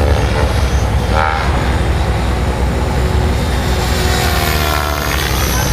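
Whine of a radio-controlled model aircraft engine, its pitch sliding up and down as the model passes and manoeuvres, over a steady low rumble.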